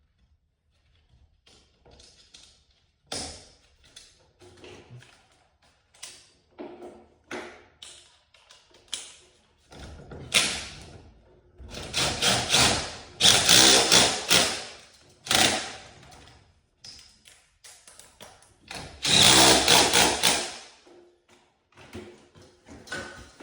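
Tool work with scattered clicks and knocks of metal hardware, and two loud bursts of about two seconds each that sound like a power tool running, about halfway through and again near the end.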